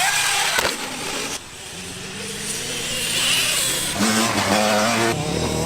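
Motorcycle engine running under way; it drops off about a second and a half in, then picks up again and runs steady and louder from about four seconds.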